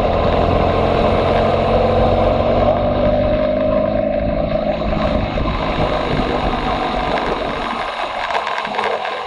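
Motorcycle engine running under way, with heavy wind noise on the microphone. The engine note sinks slightly a few seconds in, and the low rumble thins out near the end.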